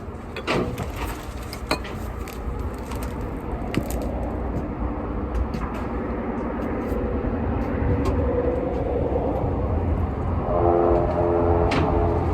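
Low vehicle engine rumble that grows steadily louder, with a few sharp metallic clicks in the first few seconds and a short pulsing tone near the end.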